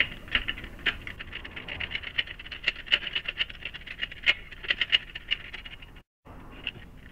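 Floor jack being pumped to raise a motorcycle, giving a run of irregular metallic clicks and clacks. The sound breaks off briefly about six seconds in.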